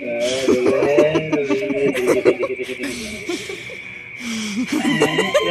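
A man and a girl laughing and chuckling together, with bits of voice mixed in.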